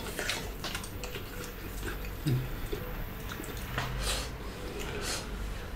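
Close-miked eating sounds of two people eating a salad by hand: wet chewing and mouth smacks with small scattered clicks of fingers and food on the plates. A short hummed "mm" about two seconds in.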